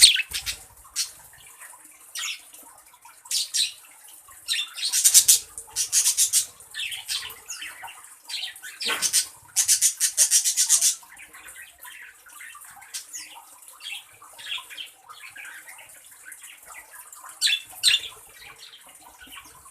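Birds in an aviary: a series of short, scratchy high-pitched bursts, some in quick rattling runs.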